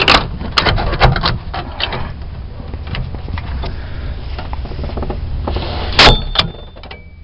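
Manual staple gun being handled and pressed against the wood with scattered clicks and rustling, then firing with one loud snap about six seconds in as a staple is driven into the wood, followed by a lighter click.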